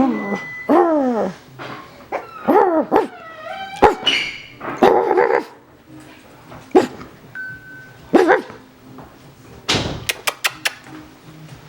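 Coton de Tulear puppy barking and yipping in short bursts, about six pitched yelps spread out, several sliding down in pitch. Near the end there is a brief rustle and a few sharp clicks.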